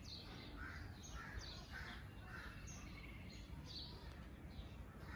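Birds calling faintly: a run of short, high, downward chirps repeating about twice a second, with a few harsher, lower calls between about one and two and a half seconds in, over a faint low rumble.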